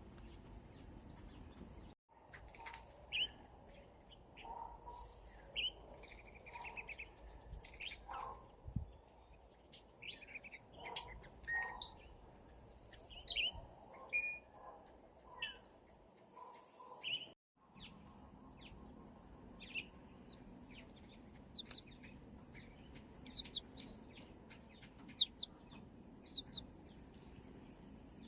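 Small birds chirping: many short, high calls and brief trills scattered throughout, over a steady low background hiss, with the sound dropping out briefly twice.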